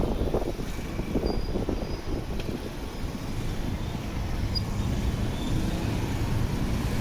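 Motorcycle engine running and road noise, heard from the passenger seat while riding through city traffic: a steady low rumble.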